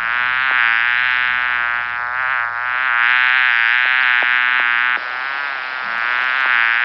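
A bee buzzing steadily in flight: one continuous drone that wavers slightly in pitch and loudness.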